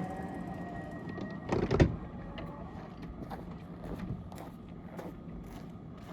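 Roslagsbanan narrow-gauge electric train: a sliding door shutting with a loud thud about a second and a half in, then a run of light clicks, about two or three a second, over a steady low hum.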